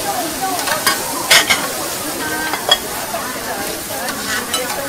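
Fried noodles with bean sprouts and egg sizzling in oil on a large shallow iron pan while two metal spatulas toss them. A few sharp clacks of the spatulas against the pan come about a second in and again near three seconds.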